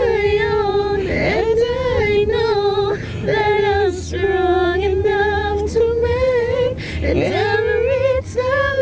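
A woman singing unaccompanied, holding long notes that slide slowly up and down in pitch, over a low steady hum.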